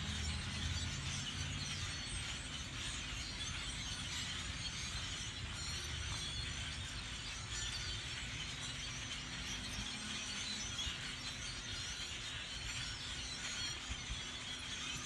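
A large winter flock of birds calling all at once, a dense steady chatter of countless overlapping high chirps and squeaks.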